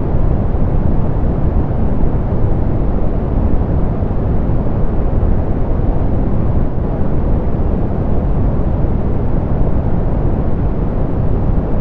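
Steady synthetic pink noise, softened so that it is deep and rumbly, with its energy in the bass and little above the upper midrange.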